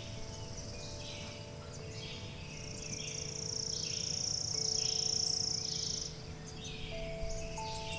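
Forest birds chirping over long, ringing wind-chime tones that overlap, with new tones struck now and then. A steady high buzzing trill rises in from about two and a half seconds in and stops about six seconds in.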